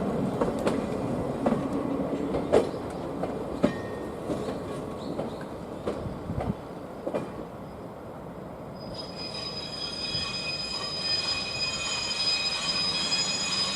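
Passenger coaches being shunted slowly by a diesel locomotive: scattered knocks from the wheels and couplings over the first several seconds, then from about nine seconds a steady high-pitched wheel squeal, typical of flanges grinding round a tight curve.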